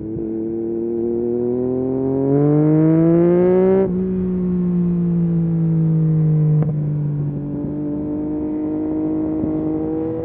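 Yamaha MT-09 SP's 890 cc three-cylinder engine through a full Akrapovic race exhaust, revs climbing under throttle, then dropping suddenly about four seconds in. The revs then sink slowly and climb again toward the end, where they drop sharply once more.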